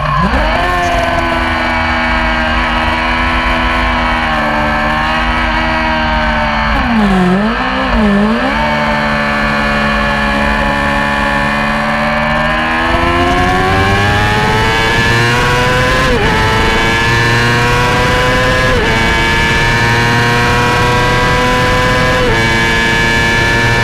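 Yamaha YZF-R6 inline-four sport bike engine at racing speed: revs drop sharply right at the start and twice in quick succession about seven seconds in, as on braking and downshifting for corners, then climb steadily under hard acceleration with three short dips at upshifts in the second half.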